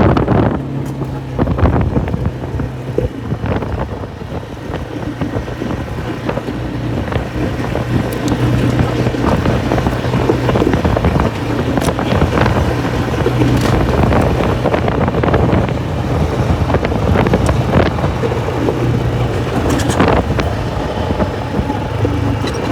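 ATV engine running steadily while riding, with wind buffeting the microphone and occasional knocks and rattles.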